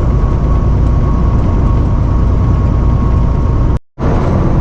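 Steady low engine and road rumble heard from inside a semi truck's cab while driving, dropping out for a moment near the end.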